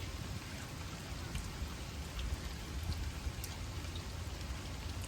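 Steady rain falling, with a few separate drops ticking now and then over a low rumble.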